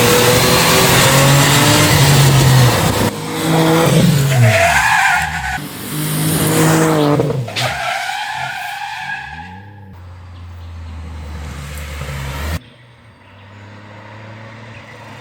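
Lancia Ypsilon HF Racing rally car's engine and exhaust revving hard, its pitch climbing and dropping back several times as it shifts through the gears. After about eight seconds it settles to a lower, steadier note, then cuts off suddenly to a quieter engine sound near the end.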